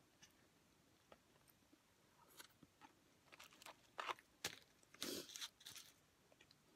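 Close-miked eating sounds: a person chewing fries dipped in chili, with scattered soft clicks at first, then a cluster of crisp crunching and crackling in the middle, loudest about four to five and a half seconds in.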